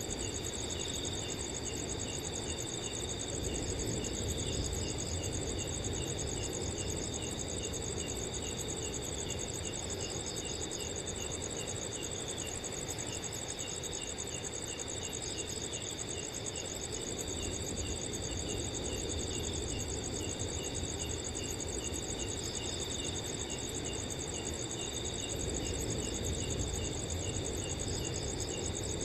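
A chorus of crickets at night: a high, fast continuous trill, a steadier lower trill, an evenly repeated chirp, and short clusters of chirps every five or six seconds. A soft, rushing wind runs underneath.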